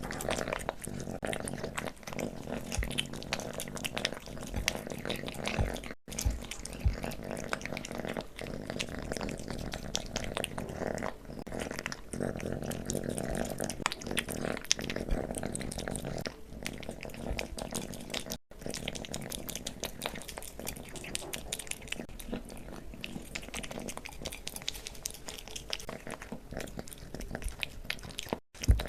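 A kitten eating wet food and creamy treats close to the microphone: a quick, continuous run of wet licking, smacking and small clicks from its tongue and jaws, cut off briefly twice.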